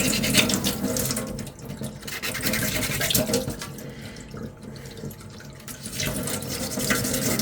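Sandpaper rasping in quick strokes across a putty-primed 3D-printed armour piece, easing off in the middle and picking up again near the end.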